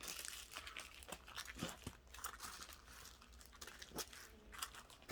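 Small plastic bags of diamond-painting drills crinkling and rustling as they are handled, with faint irregular clicks.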